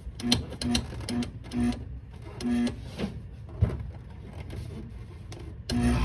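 A window air conditioner's controls give a series of short low-pitched beeps and clicks. Then, about five and a half seconds in, the unit starts up with a sudden loud, steady hum as its fan and compressor come on after the compressor reset.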